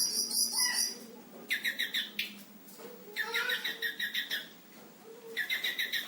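A selendang biru songbird singing continuously: high chirps at first, then three bursts of rapid trilled phrases, each about a second long, with short pauses between them. Its song is mixed with imitations of other birds.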